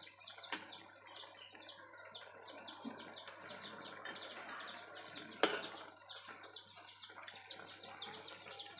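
Rapid high-pitched bird chirping, about four to five calls a second, over the soft sizzle of a simmering wok, with one sharp metal clink about five seconds in.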